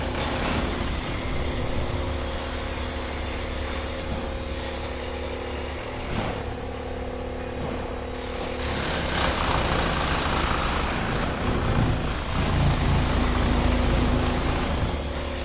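Heavy vehicle or construction machine engine running steadily at a low hum, growing louder about nine seconds in.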